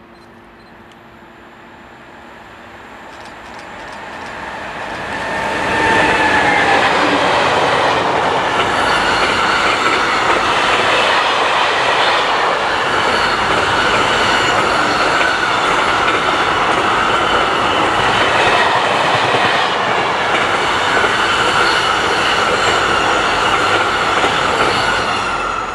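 A train approaching and passing close by, growing louder over about six seconds, then a long, loud run of wheel-on-rail noise with a steady high squeal; it cuts off suddenly at the end.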